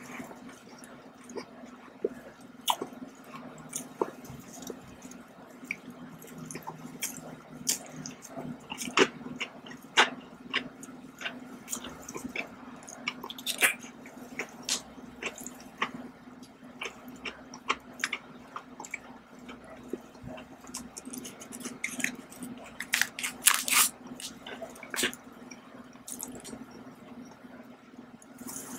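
Close-miked chewing and wet mouth sounds from eating sweets: scattered sharp clicks and smacks, busier about three-quarters of the way through, over a low steady hum.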